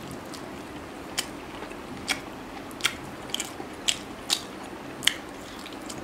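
Close-miked chewing of spicy chicken on the bone, with about seven sharp, crisp crunches spaced irregularly, roughly every half second to a second.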